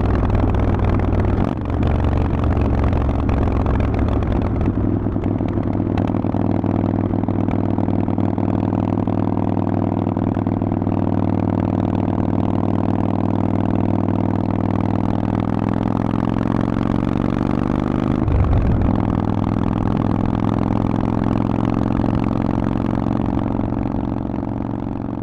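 Harley-Davidson Forty-Eight's air-cooled V-twin running through a Vance & Hines aftermarket exhaust at a steady pace, its pitch sagging slightly and rising again, with a brief break in the tone about eighteen seconds in. It fades out near the end.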